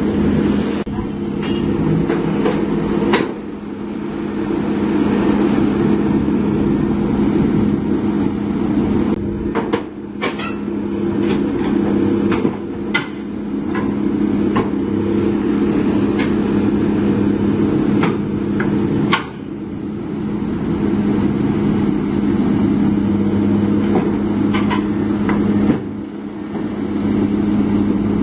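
Heavy diesel engine running steadily, with about ten sharp knocks at irregular intervals over it.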